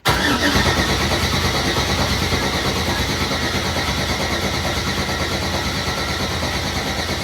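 A starter motor cranking a freshly built drift-car engine over steadily without it firing, with an even, rapid pulse, to build oil pressure before its first start. It begins abruptly and does not let up.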